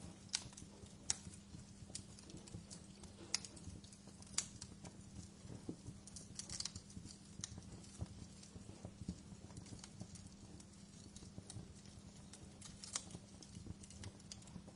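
Wood fire burning in a fireplace, crackling with irregular sharp pops and snaps, several of them louder, over a faint steady low hum.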